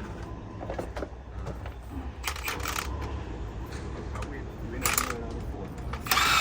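Light metallic clinks and taps of metal parts being handled, over a low steady hum. Near the end a loud, even machine noise starts.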